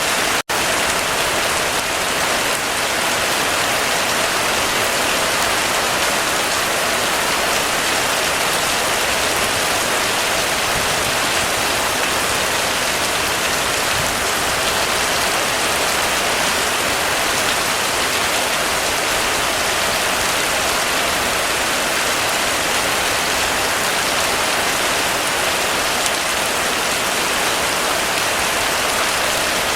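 Heavy rain falling steadily in a dense, even downpour. The sound cuts out for a split second about half a second in.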